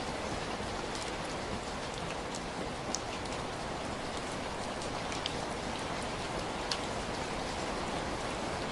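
Heavy, steady rain falling, with individual drops ticking sharply now and then over the even hiss.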